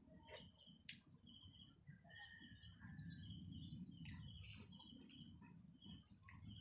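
Faint bird chirps: short, repeated high notes from several birds, over a low rumble that swells midway, with a sharp click about a second in.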